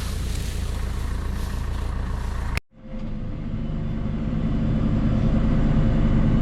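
Tractor engine running steadily. It breaks off for an instant about two and a half seconds in, then comes back and grows louder as it runs at high revs.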